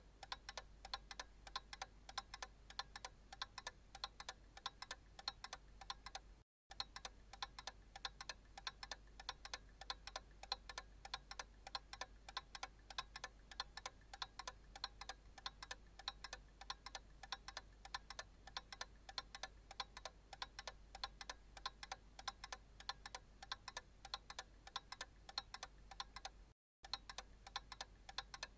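Analog clock ticking steadily, faint, with two very short dropouts to silence, one about six seconds in and one near the end.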